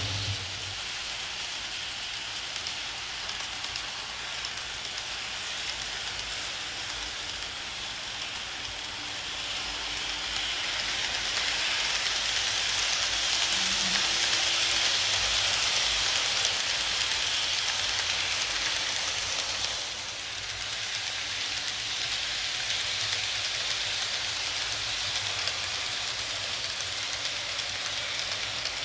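KATO N-gauge E353 series model train running on layout track, a steady rolling hiss of small wheels on rail. It grows louder from about 9 seconds in and drops off sharply near 20 seconds, as the train passes close by and moves away.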